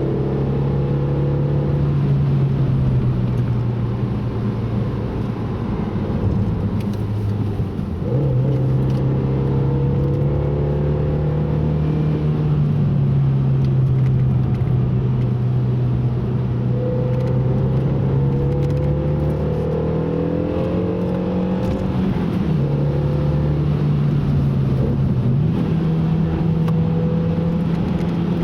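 Car engine running hard on a lap of the Nürburgring, its pitch slowly climbing and falling, with sudden jumps about 8 seconds in and twice near the end where gears change.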